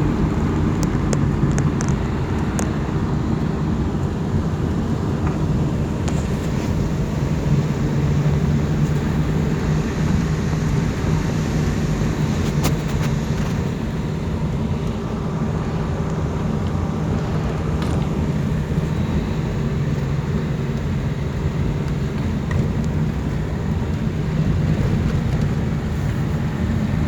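Car driving along a road: steady engine and road noise, with a low hum that does not change. A few faint ticks in the first seconds and one click about halfway through.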